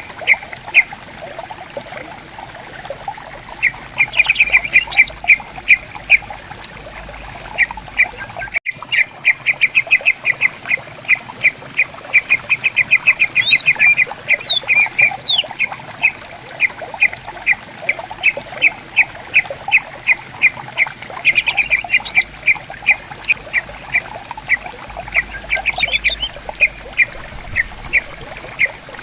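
Green leafbirds (cucak ijo) calling in long runs of short, sharp repeated notes, several a second, with a few higher gliding whistles mixed in, over a faint babbling stream. The sound drops out briefly about a third of the way through.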